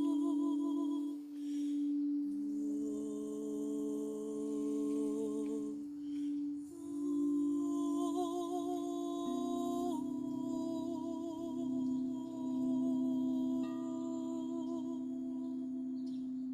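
Long, overlapping held meditative tones that waver slightly and dip briefly every few seconds, the main pitch stepping down about nine seconds in.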